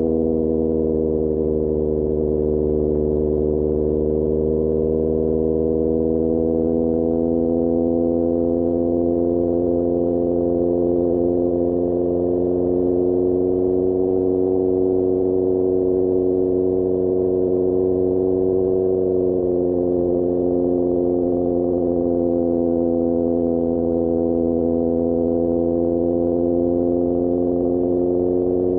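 QJMotor SRK600 inline-four engine running through an Austin Racing GP1R exhaust at a steady cruise. Its pitch eases down at the start, creeps slowly up, then drops a little about two-thirds through and holds steady.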